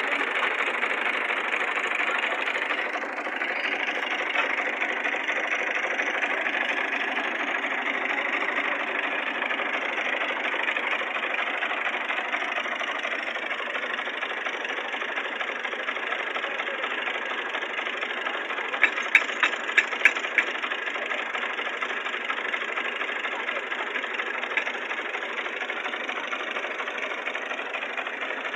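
Fiat tractor diesel engine running steadily, with a quick run of about six sharp knocks about two-thirds of the way through.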